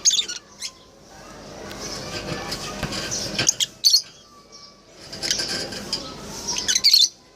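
Lovebirds chirping in clusters of short, sharp, high-pitched calls, loudest at the start, around four seconds in and again just before the end.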